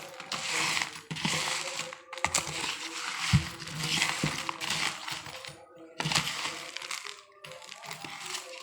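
Close-up crunching and chewing of crispy packaged snacks (ciki and fried macaroni chips), in three spells of a few seconds each, over faint background music.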